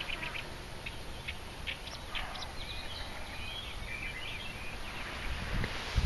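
Birds calling: many short, scattered calls and chirps, over a low rumble, with a brief thump near the end.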